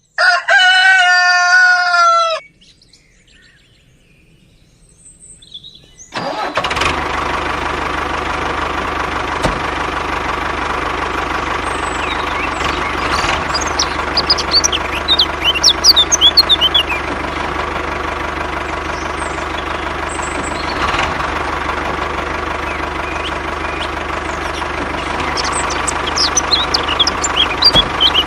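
A loud, horn-like pitched tone for about two seconds, then after a short lull an engine starts about six seconds in and runs steadily, with birds chirping over it.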